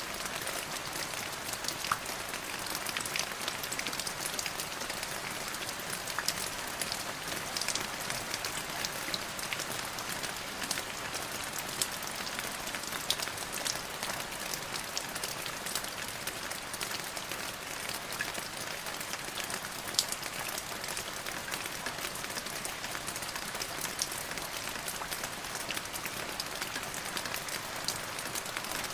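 Steady rain falling on a surface, an even hiss with many individual drops ticking sharply through it and now and then a louder single drop.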